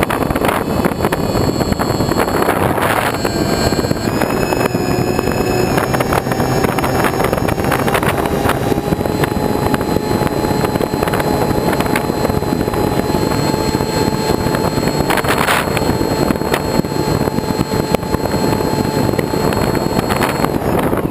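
Loud, steady rush of wind on the microphone over a running engine, whose whine climbs slowly in pitch after a few seconds.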